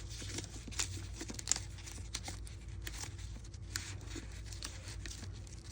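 Paper rustling and crinkling with scattered small ticks and taps as paper pages, tags and tucks of a handmade junk journal are handled.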